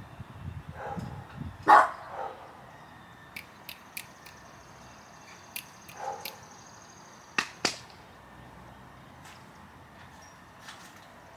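A dog gives a couple of soft, short barks, the strongest about two seconds in, among scattered sharp clicks and taps.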